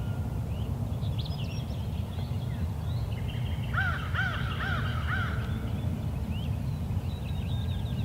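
A bird gives a run of about five short, arched calls in quick succession about four seconds in, while small birds chirp faintly and a steady low rumble runs underneath.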